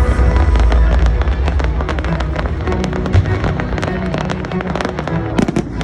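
Fireworks crackling and popping in quick succession over music, with a louder cluster of bangs near the end.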